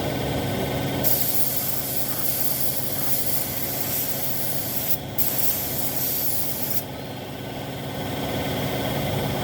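Paint spray gun hissing as it sprays a motorcycle body panel, in two passes: a long one starting about a second in, a brief break near the middle, then a shorter one. A steady machine hum runs underneath.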